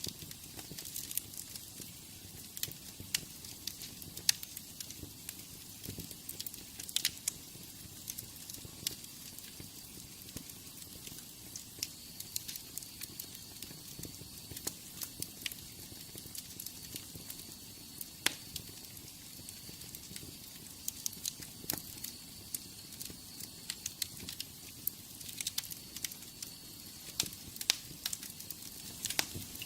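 Wood fire in a fireplace crackling: irregular sharp pops and snaps, some louder than others, over a steady soft hiss.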